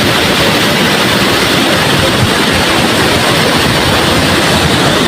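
Waterfall: the steady, loud rush of falling water, even and unchanging.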